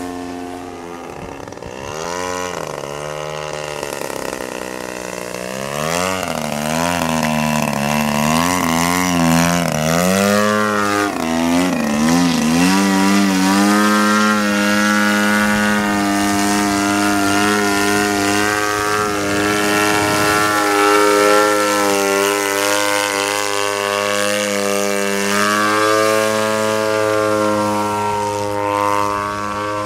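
50cc gasoline engine and propeller of a radio-controlled Edge 540T aerobatic model airplane running in flight. Its pitch rises and falls repeatedly through the first half, then holds nearly steady.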